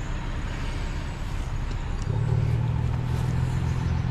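Motor vehicle engine running with a steady low hum that grows louder about two seconds in.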